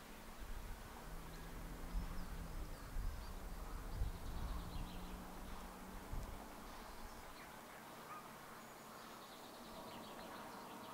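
Faint bird calls with low rumbling thumps during the first half or so.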